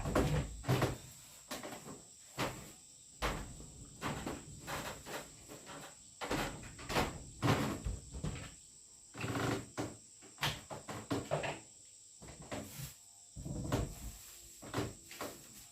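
A steady high insect drone, such as crickets, under irregular knocks and clatter, like objects being handled and set down.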